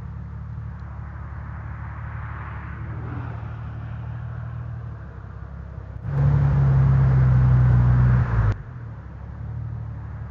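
Motorcycle riding at road speed, with a steady engine drone and road noise. About six seconds in, a much louder steady low drone comes in for about two and a half seconds and cuts off sharply.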